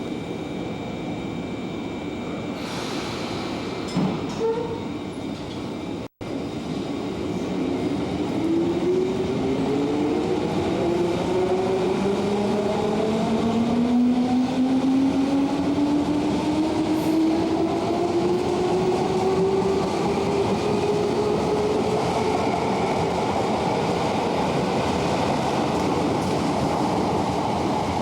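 JR 205 series electric train pulling away, its traction motor whine rising slowly and steadily in pitch as it gathers speed over the rumble of wheels on rail. The sound cuts out briefly about six seconds in.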